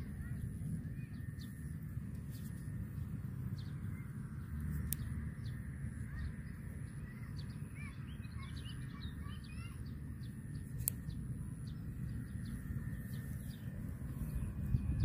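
Small birds chirping in short, scattered notes over a steady low rumble of outdoor ambience, with two sharp clicks, one about five seconds in and one about eleven seconds in.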